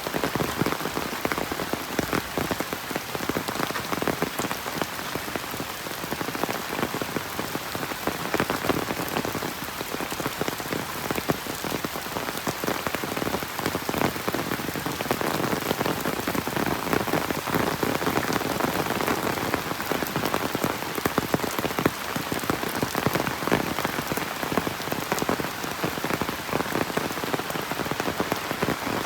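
Steady rain falling, with dense pattering of drops striking surfaces close by.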